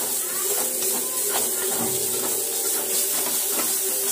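Onion and spice masala sizzling as it fries in a metal kadhai, with a metal spoon stirring and scraping against the pan a few times.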